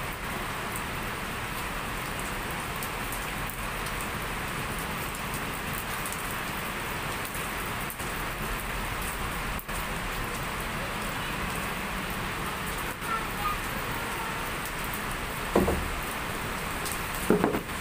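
Heavy tropical rain falling steadily, an even, unbroken hiss. Near the end two brief, louder sounds stand out above it.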